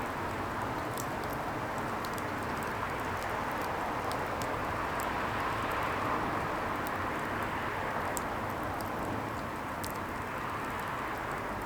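Wood fire burning: a steady hiss with small, sharp crackles popping at irregular intervals.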